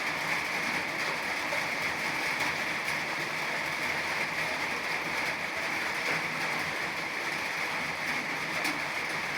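Steady rain falling, an even hiss that holds at one level without letup.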